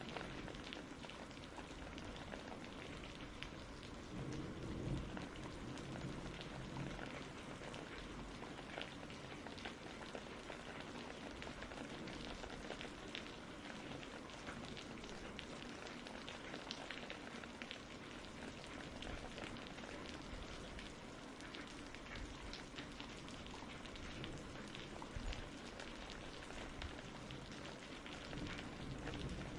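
Steady rain, a dense patter of drops falling on a surface.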